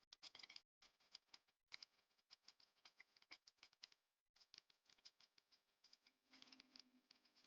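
Near silence with faint, irregular ticks of light rain dripping.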